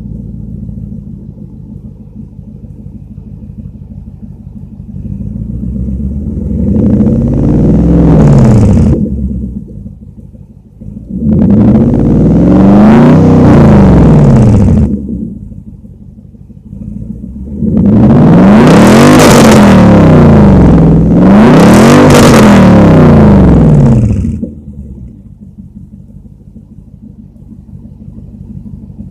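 2004 Nissan Armada's 5.6-litre V8 with a straight-piped exhaust, idling and revved up four times, each rev rising and falling back to idle; the last two come back to back. Loud throughout.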